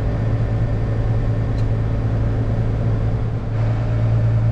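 Heavy farm machine's diesel engine running steadily, heard from inside the cab as a low, even drone. The drone dips briefly about three and a half seconds in, then comes back a little louder.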